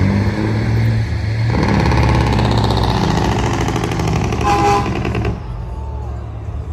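Truck engines running with a low rumble. One grows louder from about a second and a half in, a short horn toot sounds near the end of that, and then the sound drops away sharply.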